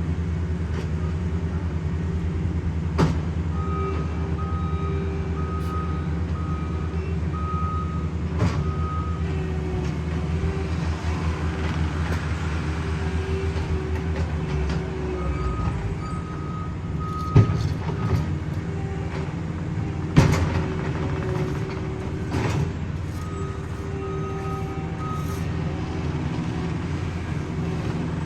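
Heavy diesel paving equipment running steadily with a low rumble, while a reversing alarm beeps about twice a second in three spells. A few sharp clanks stand out, the loudest about two-thirds of the way in.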